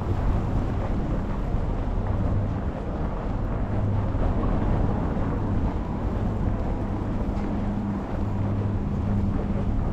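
Steady low rumble of street traffic with a constant low hum under it and wind buffeting the microphone.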